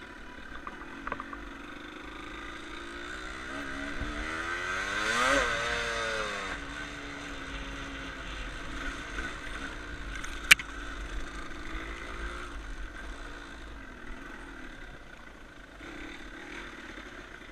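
Dirt bike engine running, revving up and back down once about five seconds in, with a single sharp click a few seconds later.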